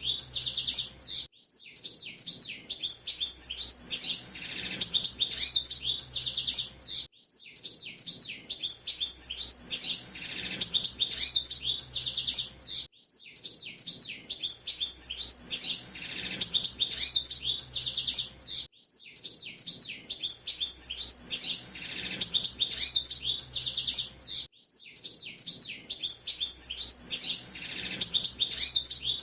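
Pintassilgo de gravata (a black-bibbed form of the hooded siskin) singing a long, rapid twittering song in high, fast notes. The phrases run about five seconds each with a brief pause between them, and they repeat in the same pattern over and over.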